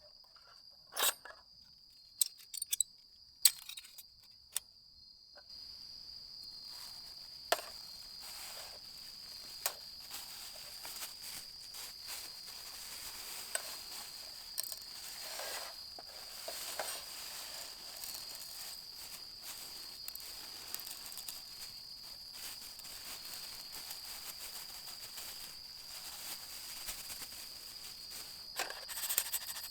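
Insects singing a steady, high, continuous trill. A few sharp clicks and knocks come in the first seconds, and from about five seconds in a soft hiss with scattered small crackles joins it.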